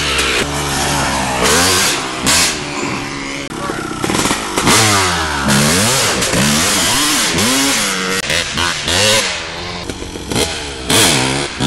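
A 2000 Suzuki RM250 dirt bike's two-stroke single-cylinder engine revving up and down over and over, its pitch rising and falling several times.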